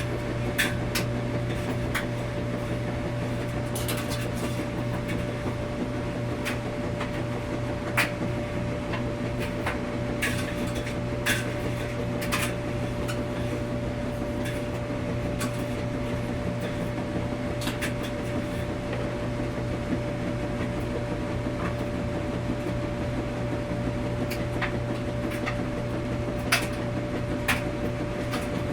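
Laundromat washing machines running with a steady hum, with light clicks and knocks scattered through it.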